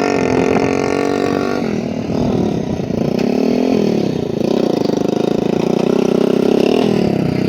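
Motorcycle engine running, its pitch falling and rising several times as the throttle is opened and eased off, holding steadier in the middle before dipping again near the end.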